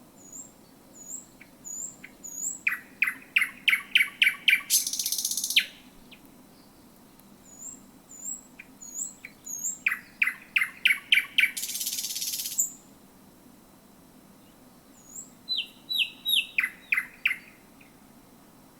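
Thrush nightingale singing three song phrases. The first two are runs of loud, quick clicking notes that speed up and end in a dry rattle; the third, near the end, is a short string of falling notes. Soft high whistles come between the phrases.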